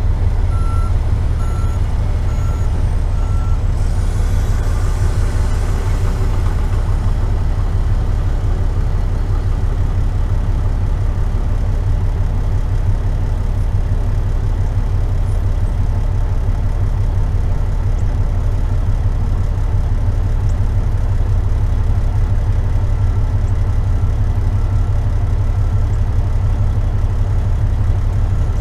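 Heavy truck's diesel engine running with a loud, steady low rumble. A backup alarm gives a row of evenly spaced beeps over the first few seconds and again near the end.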